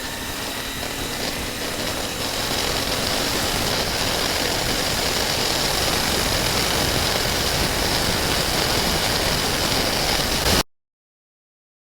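Suzuki V-Strom 650 V-twin motorcycle on the road gathering speed, its engine under a rush of wind noise that builds over the first few seconds and then holds steady. The sound cuts off suddenly near the end.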